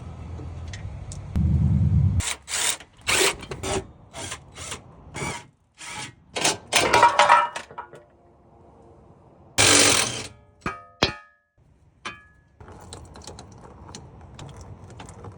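Metal tools and parts clanking and clicking in short, irregular knocks while a car's steering rack is unbolted and removed. There is a brief low hum near the start, a loud noisy burst about two-thirds of the way through, and a short metallic ring just after it.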